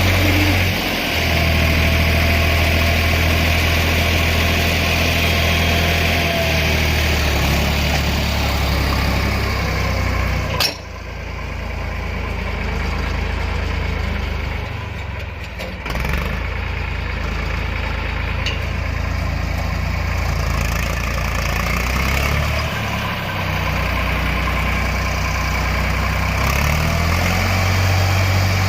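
Tractor engine running, its speed stepping up and down several times, with a faint whine near the start and again near the end. A sharp click about a third of the way through, followed by a drop in level for a few seconds.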